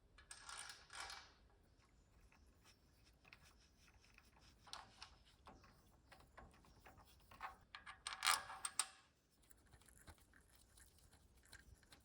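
Light clicking and scraping of hand work with small metal engine parts, as hydraulic lifters are refitted into a Subaru EJ engine's cylinder head. Two louder spells of crackly rustling and clinking, one just after the start and one about eight seconds in.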